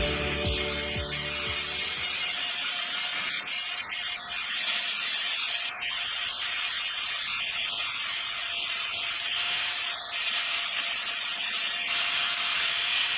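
Electric sander running steadily against wood: a continuous hissing rasp with a thin, steady high whine.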